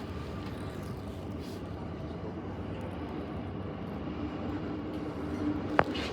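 Passenger train carriage heard from inside: a steady running rumble, with a faint hum that swells near the end and one sharp click just before the end.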